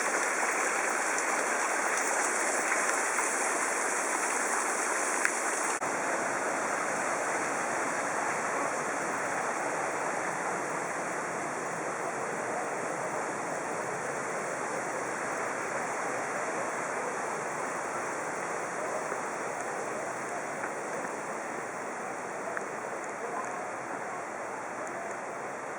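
Rushing stream water, a steady hiss that grows gradually quieter toward the end.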